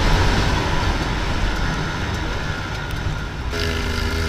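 Off-road motorcycle engine running at low revs with a rough rumble; about three and a half seconds in, a steady engine note comes in over it.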